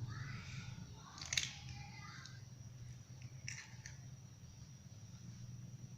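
A few sharp clicks and taps: a chicken egg being cracked and added to a bowl of batter flour. There is one loud click a little over a second in and two lighter ones near the middle, over a steady low hum.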